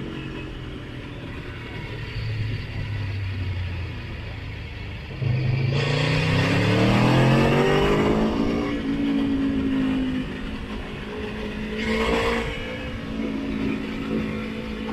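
Motorcycle engine running on the road, then opening up hard about five seconds in, its pitch rising for a few seconds as it accelerates before easing off; a shorter surge follows near the end.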